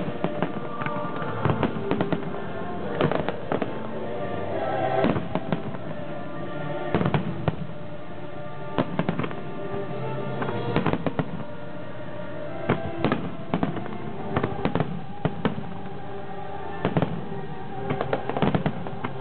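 Aerial fireworks shells bursting, sharp bangs coming every second or two, often several in quick succession, over loud show music with held chords.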